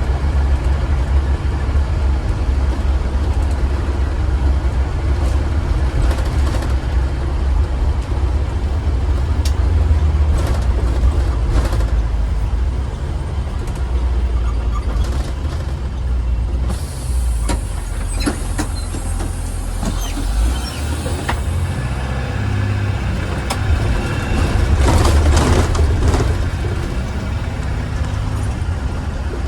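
2015 Blue Bird Vision school bus running, with a heavy low engine drone and rattles through the cabin. For about four seconds past the middle there is a hiss of air, typical of the air brakes.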